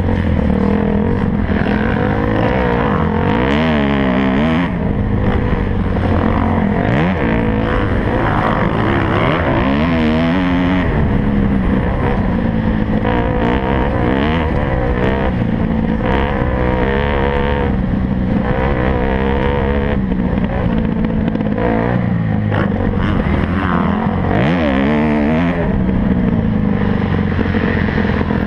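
Motocross dirt bike engines revving hard, their pitch rising and falling over and over as the throttles open and close, with more than one bike heard at once.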